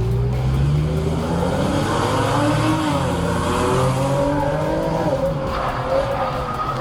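A car's engine running hard, its pitch wavering up and down, with tyre squeal.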